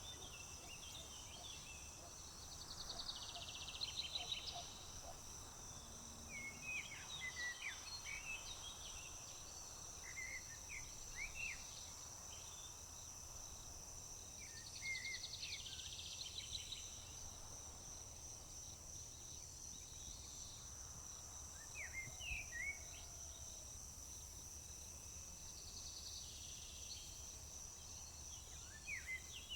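Summer field chorus: crickets keep up a steady high drone while birds sing short chirping notes. A buzzy trilled song comes three times, about every eleven seconds, over a faint low rumble.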